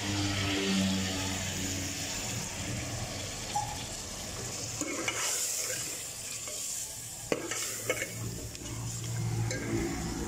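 Beef, tomatoes and masala frying in a metal pot while a steel ladle stirs and scrapes them, with a continuous sizzle. The ladle knocks sharply against the pot twice a little after the middle.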